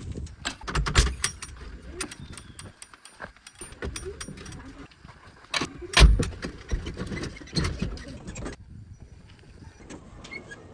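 Irregular knocks and clanks, the loudest about a second in and about six seconds in, over a low engine rumble.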